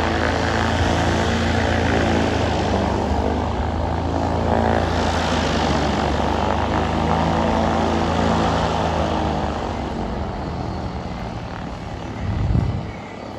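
Light propeller airplane's engine running loud and steady close by, then fading away after about ten seconds. There is a brief low thump near the end.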